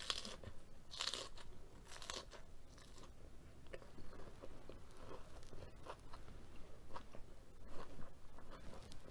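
Crunchy chewing of a mouthful of crisp lettuce wrap, close to the microphone. Loud crunches come about once a second in the first two seconds, then quieter chewing with scattered small crunches.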